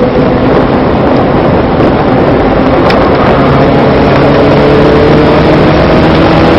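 Vauxhall VXR220's turbocharged four-cylinder engine heard from inside the cabin at track speed, under a loud, dense rush of noise; the engine note climbs steadily from about halfway as the car accelerates hard.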